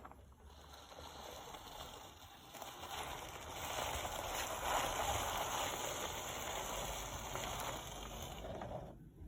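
Many marbles rolling down a wooden ramp: a continuous rush of rolling that builds over the first few seconds and stops abruptly near the end.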